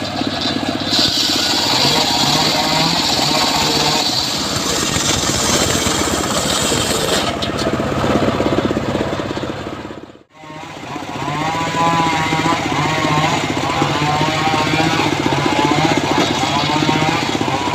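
Engine of a home-built circular sawmill running steadily with a fast, even pulse, and a high hiss for several seconds as the blade cuts timber. The sound fades out briefly about ten seconds in, then the engine is back with a wavering pitched tone over it.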